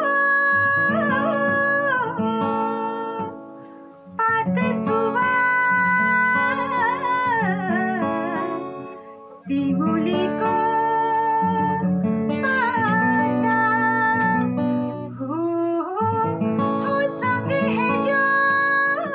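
A woman singing with acoustic guitar accompaniment. She sings in long phrases of held notes, with short breaks between phrases about four and nine seconds in.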